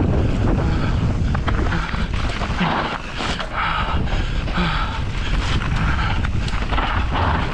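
Wind buffeting the microphone of a mountain biker's camera during a fast descent of a dirt trail, over a steady low rumble of tyres, with scattered knocks and rattles from the bike over bumps.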